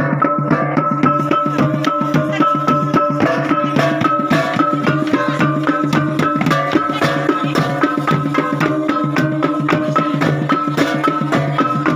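Gong and drum ensemble (gung-gendang) playing continuously: fast, even drum strokes over a repeating pattern of ringing gong notes.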